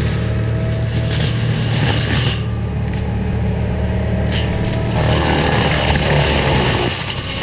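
Forestry mulcher's diesel engine running steadily under load while its cutting head grinds through woody brush, with heavier grinding from about five seconds in that eases near the end.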